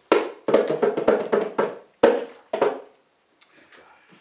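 Bongos played by hand: a quick run of sharp strikes that slows to a few single hits and stops under a second before the end.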